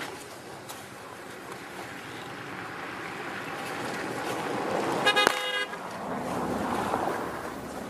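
C2 narrow-gauge steam locomotive working, its steam and running noise building up over several seconds and easing off near the end. A short whistle toot sounds about five seconds in.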